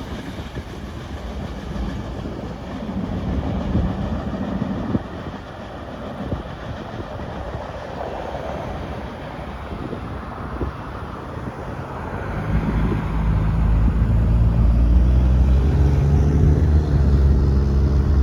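Freight train of tank cars rolling past, steel wheels clattering over the rail joints. About twelve seconds in, a loud, steady low engine drone rises and becomes the loudest sound.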